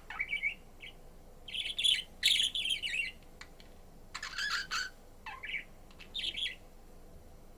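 Budgerigar chirping in short bursts of rapid, scratchy chirps, several clusters with brief pauses between them.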